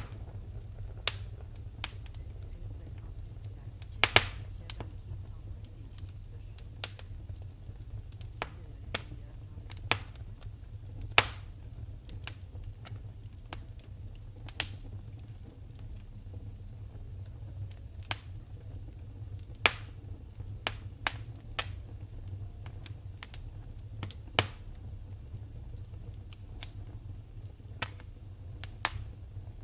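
Wood fire burning in a fireplace, crackling with sharp, irregular pops and snaps over a steady low rumble; a few pops stand out louder, about 4, 11 and 20 seconds in.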